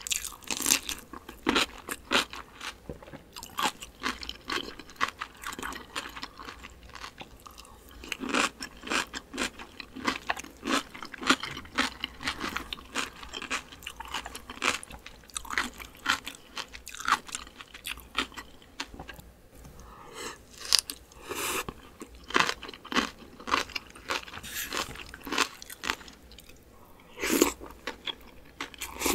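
Crisp, wet crunching and chewing of cucumber kimchi, a long run of quick sharp crunches. A louder burst near the end as a mouthful of spicy cold noodles goes in.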